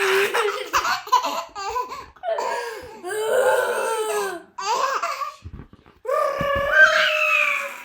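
Baby laughing hard in a run of high-pitched bursts, with a longer drawn-out laugh near the end.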